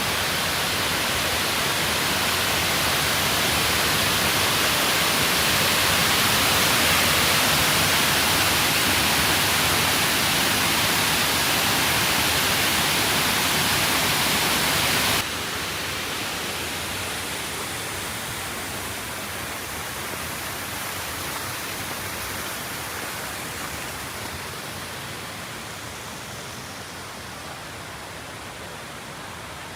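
Waterfall: a steady, loud rush of falling water. About halfway through it drops suddenly to a quieter, duller rush, which then slowly fades.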